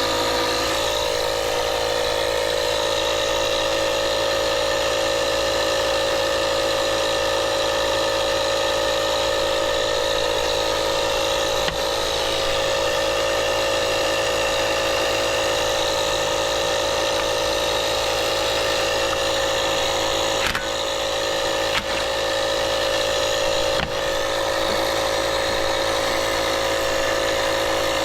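Steady drone of an idling engine or motor, unchanging throughout, with a few short sharp clicks from work on the wheel, one near the middle and three more in the second half.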